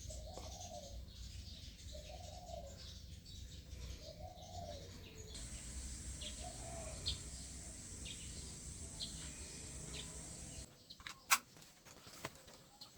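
Outdoor birds calling over a low background rumble: a short, low, arched call repeating about every two seconds, then brief higher chirps. Near the end the background drops away and a few sharp clicks or knocks are heard.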